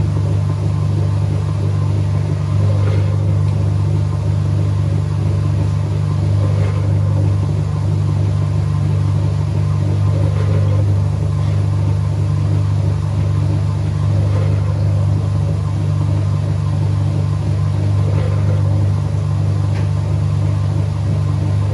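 Whirlpool 3RLSQ8033SWD top-loading washing machine running mid-cycle: a steady, loud motor hum with a faint swish about every four seconds.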